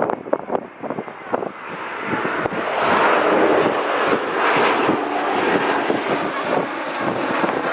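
Jet airliner passing close, its engine noise swelling from about two seconds in and staying loud. Wind thumps on the microphone in the first two seconds.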